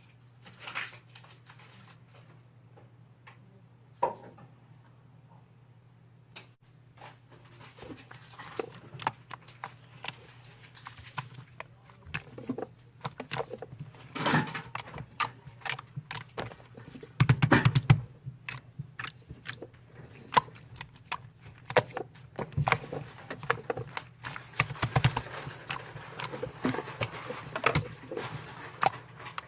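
Slime being squished and stretched by hand, making a busy run of small wet clicks and pops that starts sparse and gets denser after several seconds, with a louder burst of squelching near the middle. A steady low hum sits underneath.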